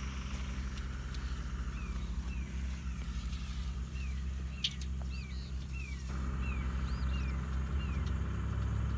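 An engine running steadily with a low hum that picks up a little about six seconds in, while a bird repeats short falling chirps about twice a second.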